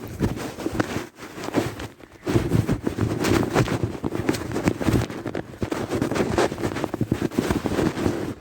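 Wind buffeting the microphone while riding a bicycle along a trail, with the bike's tyres crunching and the bike rattling over rough ground. Both rise and fall unevenly, with a brief lull just before the two-second mark.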